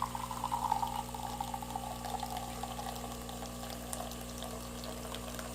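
Espresso running from a DeLonghi Magnifica XS bean-to-cup machine into a cup over a steady machine hum. The pouring tone slowly falls over the first few seconds, then fades. The shot is coming out thin and watery.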